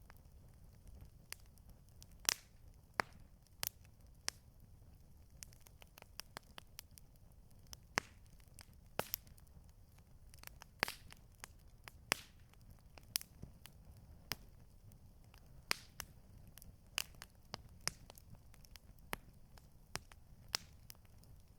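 Campfire crackling: irregular sharp pops and snaps of burning wood, some much louder than the rest, over a faint low rumble.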